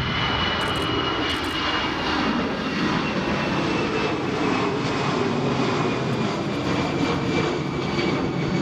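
Jet airliner's engines running steadily, a constant rumble with a high whine that slowly falls in pitch.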